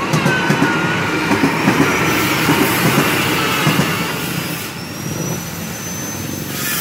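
Electric commuter train running past on the track, its wheels clattering in a regular rhythm over the rails, then the rumble dies away as it moves off, with a faint rising whine near the end.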